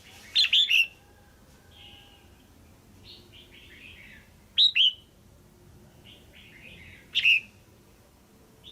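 Female red-whiskered bulbul calling: three short, loud bursts of sharp chirping notes, near the start, in the middle and near the end, with softer chattering notes between them.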